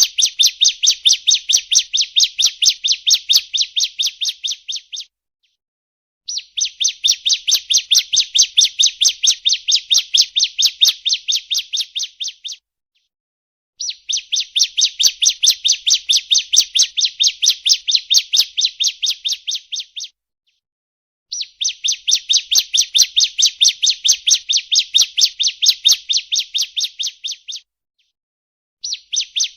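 Bar-winged prinia (ciblek) song played as a lure call: a rapid, even run of high chirping notes in phrases of about six seconds, separated by pauses of about a second, repeated four times.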